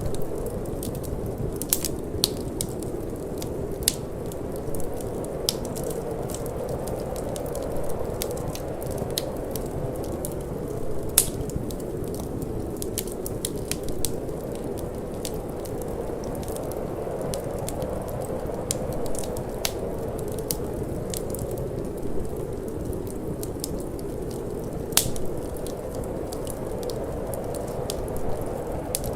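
Wood fire crackling in a fireplace, with irregular sharp pops, one louder snap about a third of the way through, over a steady low rush of wind.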